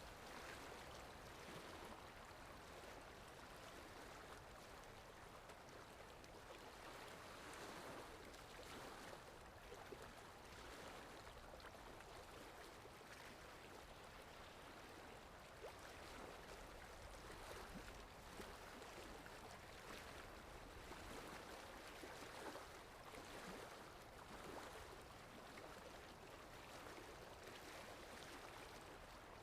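Sea waves washing in, a faint steady wash of water that swells and eases every few seconds.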